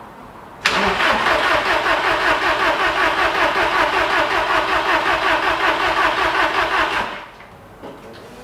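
VW Golf Mk1's engine being cranked on the starter motor for about six seconds, a loud, evenly pulsing sound that begins suddenly and cuts off.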